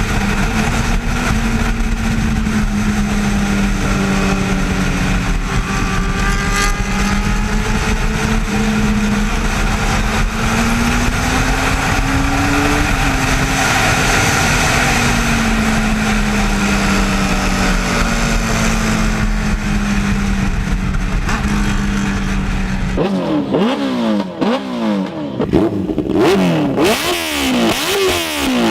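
Benelli TNT 600 inline-four motorcycle engine breathing through an aftermarket SC Project exhaust. It holds a steady engine note for most of the time, lifting slightly a little before halfway. About 23 seconds in, it breaks into a string of sharp revs up and down.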